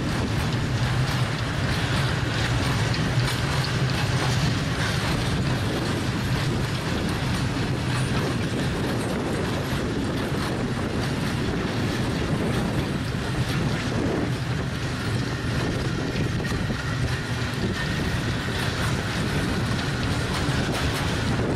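Freight train of tank wagons rolling past, its wheels running over the rails in a steady rumble.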